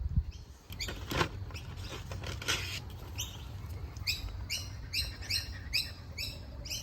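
A bird giving short, high chirps that fall in pitch, in a steady series of about two a second from about three seconds in. Before that there are a few brief, broader sounds.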